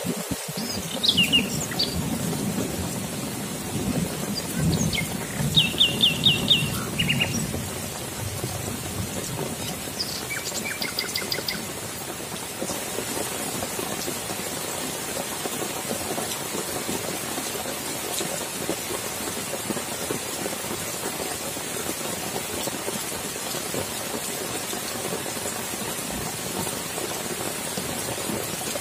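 Steady rain pouring onto wet foliage and puddled ground. In the first several seconds a low rumble of distant thunder runs under it, and a bird chirps in short series of high notes a few times in the first half.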